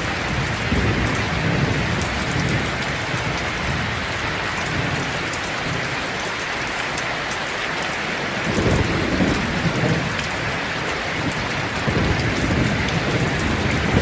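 Steady heavy rain falling, with low rolling thunder rumbling under it; the rumble swells about two-thirds of the way in and again near the end.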